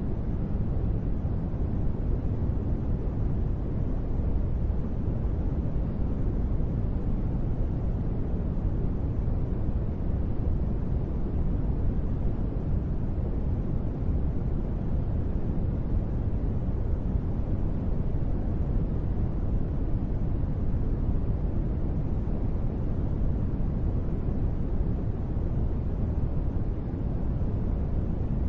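Steady, deep rushing noise with no breaks and no separate drops, strongest in the low end and muffled on top: a sleep noise track presented as gentle rain.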